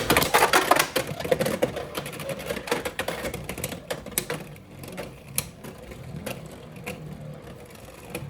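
Two Beyblade X spinning tops battling in a plastic stadium: a whirring hum with a fast run of hard clicks and knocks as they collide, densest in the first second and thinning out after.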